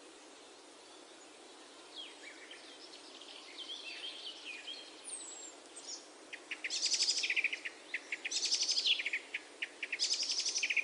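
Songbirds chirping, with short whistled glides at first, then loud runs of rapid repeated trill notes in the second half, over a faint steady hiss.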